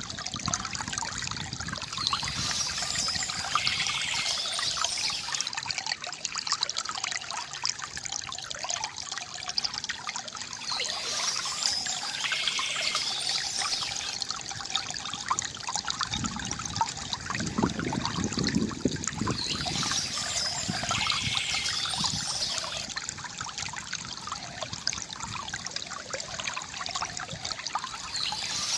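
Water trickling and gurgling from a bamboo fountain, a steady flow with a brighter surge about every nine seconds and a deeper gurgle past the middle.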